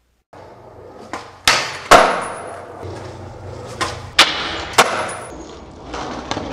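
Skateboard rolling with a string of sharp wooden clacks from the board, like tail pops and landings, about seven in all, the loudest about two seconds in.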